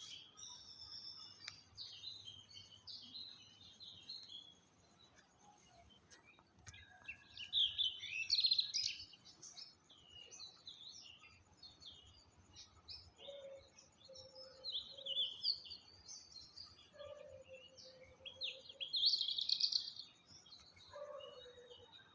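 Songbirds singing, with bursts of quick high twittering chirps and a few short lower notes in between. The loudest bursts come a little before halfway and again near the end.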